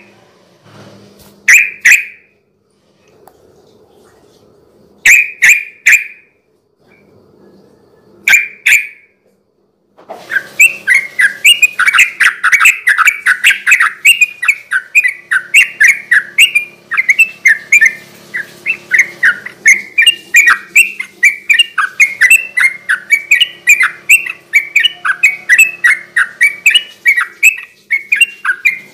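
Sooty-headed bulbul (trucukan) singing. A few short bursts of sharp chirping notes come in the first nine seconds, then from about ten seconds in a long, fast, unbroken run of notes.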